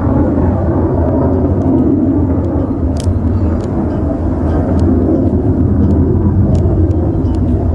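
F-35A Lightning II fighter jet's single Pratt & Whitney F135 afterburning turbofan running as a loud, steady low rumble, with a few faint clicks over it.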